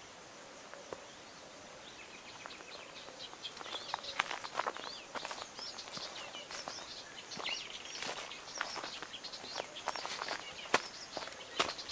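Footsteps crunching and crackling through dry brush and vegetation, irregular and growing busier about four seconds in. Small birds chirp throughout.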